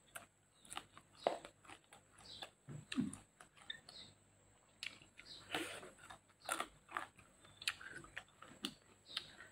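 Close-up chewing with wet mouth smacks and clicks, a person eating by hand with a full mouth. The sounds are faint and come irregularly, a few a second.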